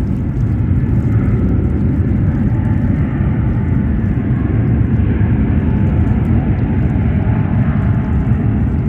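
Jet airliner engines running, a loud, steady rumble.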